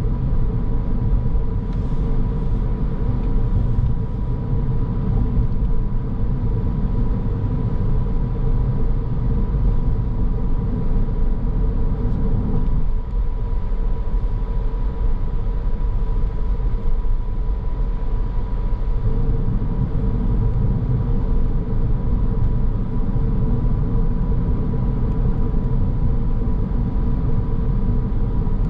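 Car driving along: steady road and tyre rumble with engine noise, under a steady high tone. The low rumble eases for several seconds about halfway through, then returns.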